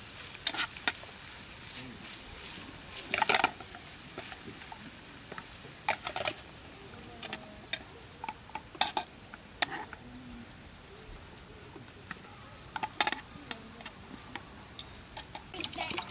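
Camp cookware and utensils clinking and knocking in scattered sharp clicks, the loudest cluster about three seconds in.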